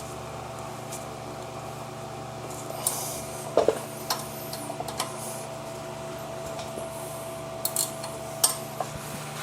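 A few scattered clicks and clinks of hand tools being handled at a brake caliper, over a steady hum.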